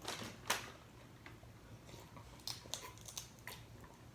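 Faint sounds of someone drinking: small sips and swallows, heard as a few short sharp clicks.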